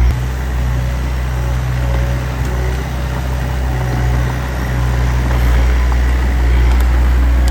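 Diesel engine of heavy earthmoving machinery running steadily: a low drone that gets a little louder about five seconds in.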